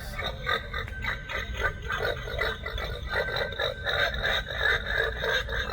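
Animated Halloween pig decoration playing its recorded possessed-pig sound effect through a small speaker: a rapid run of short repeated sounds, about four a second.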